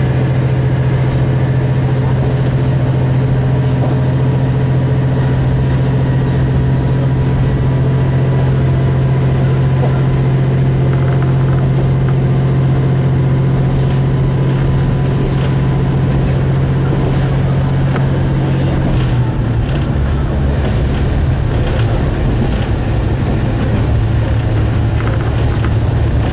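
Single-car diesel railcar running between stations, heard from inside the cabin: a steady low engine drone. About 19 seconds in, the engine note drops lower and turns rougher.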